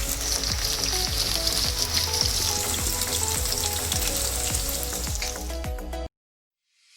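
Marinated chicken pieces frying in hot oil in a pan: a steady sizzle with many small pops and crackles. It cuts off suddenly about six seconds in.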